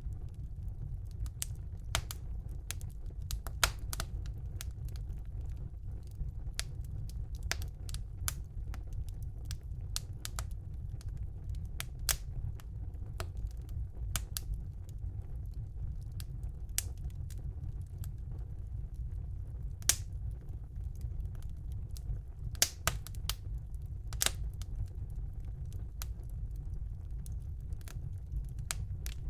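Wood fire crackling in a fireplace: irregular sharp snaps and pops, a few of them much louder, over a steady low rumble.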